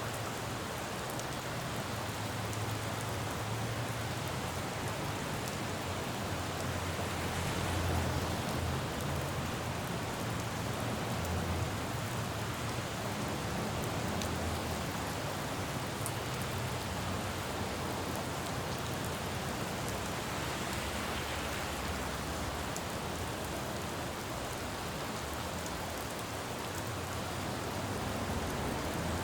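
Steady rain falling on a city road, with faint drop ticks, and the low rumble of traffic on wet pavement swelling now and then as vehicles pass.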